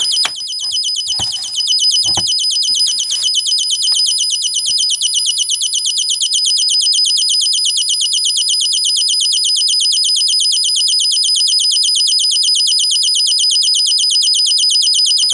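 Electronic bird-chirp generator built from two-transistor astable multivibrators, sounding through a small speaker: a rapid, even train of short high chirps, many a second, repeating without pause. A few light knocks in the first few seconds.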